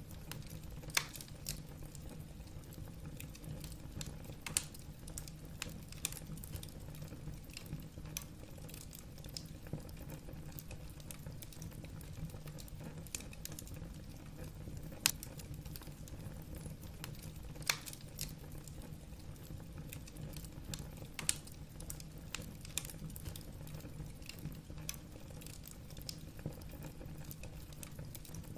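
Wood fire burning in a fireplace: steady low rumble of the flames with irregular crackling of the burning logs, and a few louder pops scattered through.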